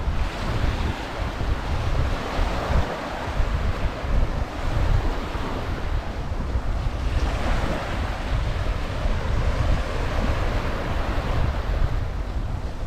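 Small waves breaking and washing up on a sand beach, the surf swelling twice, with wind buffeting the microphone as a steady low rumble.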